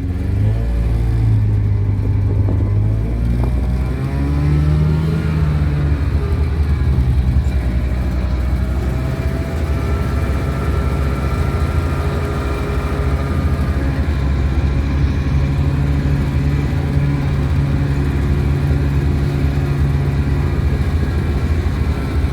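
Small engine of a 1970 Cony kei truck under way, revving up over the first few seconds and then running at a fairly steady speed with small rises and dips in pitch.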